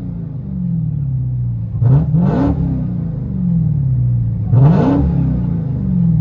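Straight-piped Dodge Hellcat supercharged 6.2L HEMI V8 heard from inside the cabin, revved twice, about 2 and 5 seconds in, each time snapping up in pitch and sinking slowly back toward idle. The car is loud throughout.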